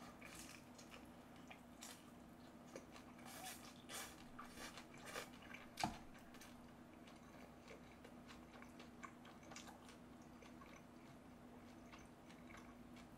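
Close-miked chewing of a bite of guobaorou, crispy battered fried pork: soft crunches and wet mouth sounds, mostly in the first half, with a sharper click about six seconds in. A faint steady hum runs underneath.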